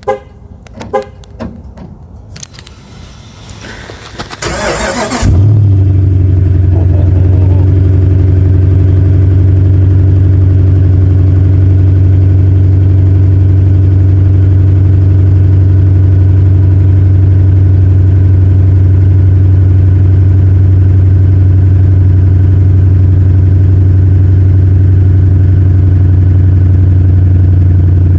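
A few clicks, then the 2016 Dodge Ram 2500's Hemi V8, remote-started from cold, cranks for about three seconds, catches about five seconds in, and settles into a loud, steady cold idle.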